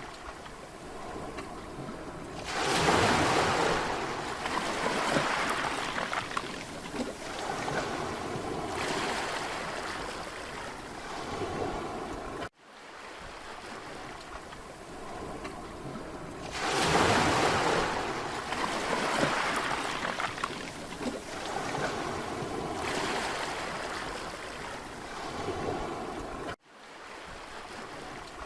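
Mediterranean sea waves breaking and washing onto a beach, swelling in surges every few seconds. The biggest surges come about two and a half seconds in and again about sixteen seconds in. The sound cuts off suddenly for an instant twice, about twelve seconds in and near the end.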